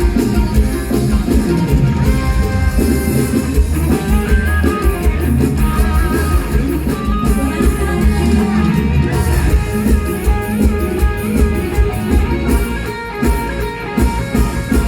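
Live mor lam band playing an instrumental passage: a plucked string lead melody over bass and drum kit.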